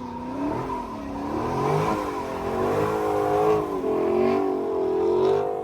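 Car engine revving, its pitch rising and falling over and over with the throttle.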